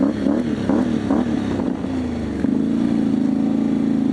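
Riding lawn mower's engine running while being driven. Its pitch wavers up and down at first, then holds steady from about halfway through.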